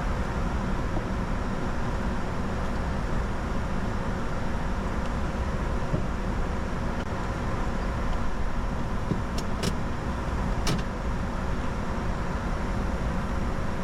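Steady cockpit noise of a Bombardier Challenger 605 on approach: a constant rush with a faint hum. Three short clicks about nine to eleven seconds in.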